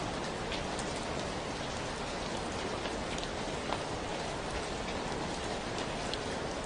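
Steady rain falling, with scattered individual drops ticking now and then over the even patter.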